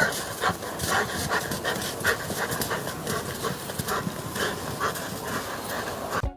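A dog panting quickly and rhythmically, about three breaths a second.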